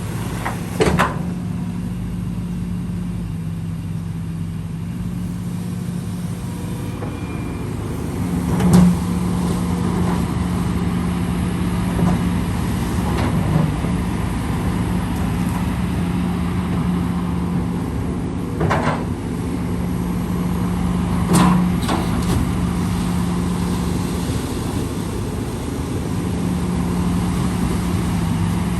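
Diesel engine of heavy earthmoving machinery running steadily, with a few sharp knocks, about four through the stretch.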